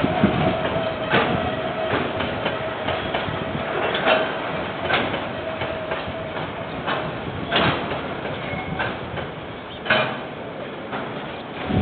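Train rolling past, its wheels knocking irregularly over the rail joints, with a thin steady whine that fades out about two-thirds of the way through.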